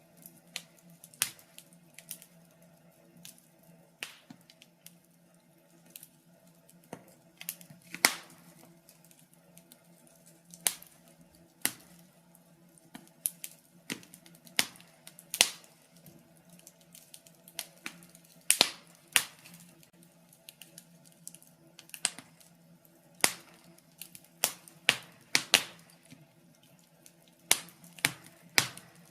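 Wood fire in a fireplace crackling: irregular sharp pops and snaps at random intervals, a few much louder than the rest, over a faint steady hum.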